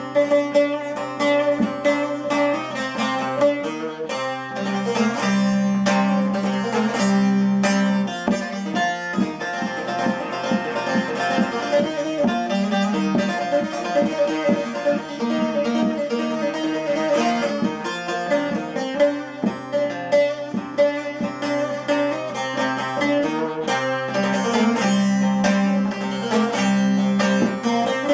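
Bağlama (saz) playing an instrumental passage: a quick plucked melody over sustained low notes.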